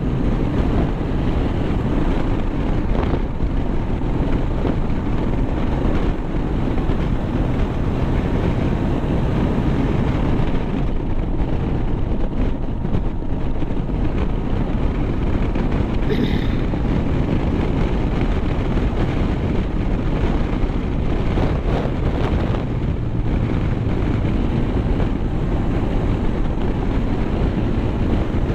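Steady wind buffeting the microphone and road noise from a vehicle travelling at speed. A faint short tone sounds once partway through.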